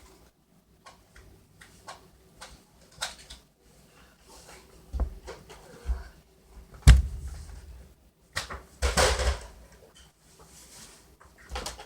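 Scattered knocks and thumps in a room. The loudest is a single sharp bang about seven seconds in, followed about two seconds later by a short rustling burst.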